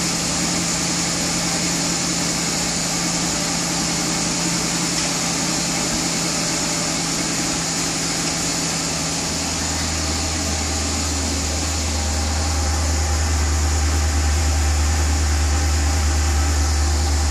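Maserati coupe engine idling on its stock exhaust, a steady hum; a deep low rumble grows in about nine seconds in and holds.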